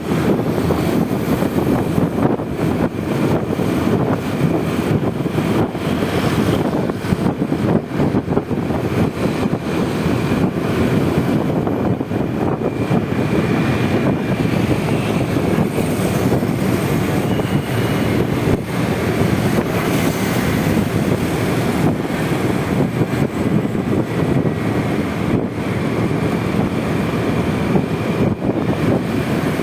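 Honda Vario 125 scooter riding in city traffic, a steady rush of wind on the microphone over the running engine, with no pauses.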